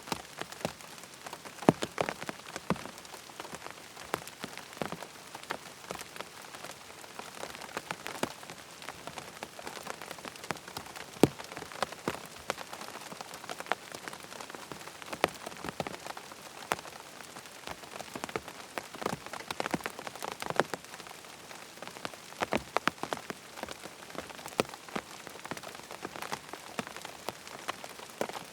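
Steady rain pattering on a tent's fabric, with a constant hiss of fine drops and frequent sharper taps of single larger drops.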